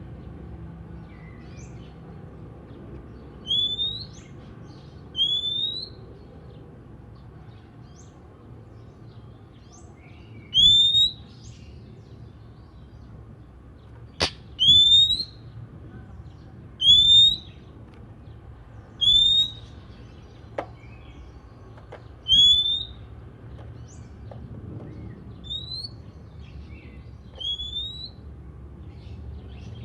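Oriental magpie-robin (kacer) repeating a short rising whistle every second or two, with a few sharp clicks in between.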